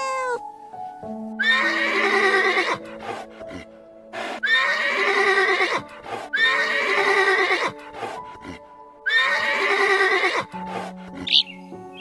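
A horse whinnying four times, each call just over a second long, over piano music.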